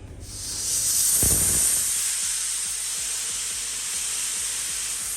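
Compressed air hissing out of a Broom Wade air compressor's system, building over the first second and then held steady, with one low thump about a second in. The air coming out is dry, without water.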